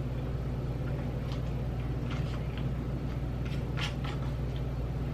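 Potato chips being crunched and chewed, a few irregular sharp crunches, the loudest a little before four seconds in, over a steady low hum.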